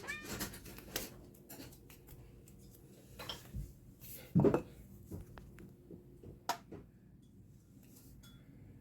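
Scattered clinks and knocks of dishes and utensils being handled as cat food is got ready, with a louder clatter about four and a half seconds in.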